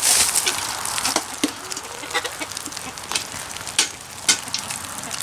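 Steady rain hiss with irregular sharp taps and clicks of drops, and a few soft clucks from hens.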